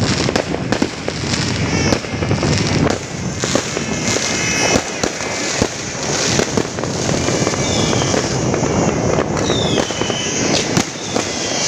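Fireworks going off in a continuous barrage of rapid, overlapping bangs and crackling.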